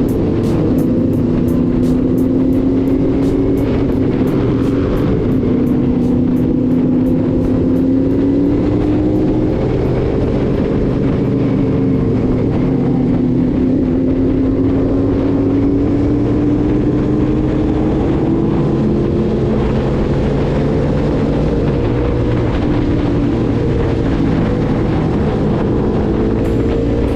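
Motorcycle engine running under way on a ride, its pitch climbing slowly and dropping back a few times, over steady road and wind noise.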